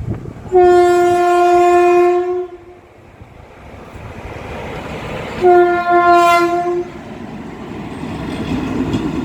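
Locomotive horn sounding two long blasts, the first about two seconds, the second about a second and a half, some three seconds apart. Between and after them the rumble of an approaching train grows louder.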